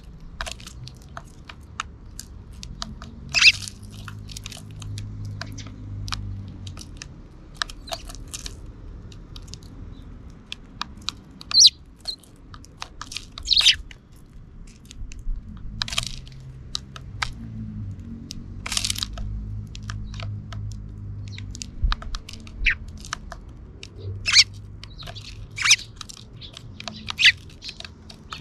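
Sparrows pecking and cracking seeds close to the microphone: an irregular scatter of sharp clicks and crunches, with a few short chirps among them, over a faint low rumble.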